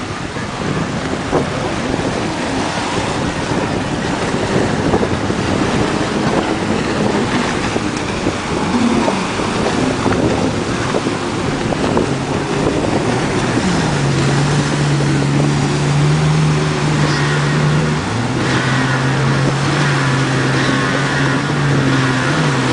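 A Kawasaki SX-R 800 stand-up jet ski's two-stroke twin engine running on the water, with water and wind noise. Its pitch settles into a steady note about two-thirds of the way through, dips briefly, then wavers near the end.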